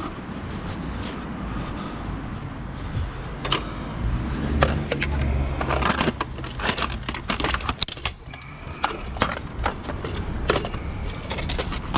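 Scrap metal being handled: clattering and knocking, growing into a quick run of sharp metal knocks from about six seconds in, over a low steady hum.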